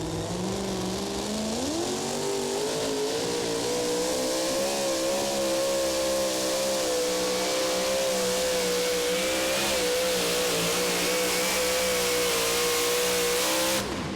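Super Modified two-wheel-drive Willys pulling truck's engine at full throttle, dragging the weight-transfer sled: its pitch climbs about two seconds in, then holds high and steady through the pull and drops off suddenly near the end as the pass finishes.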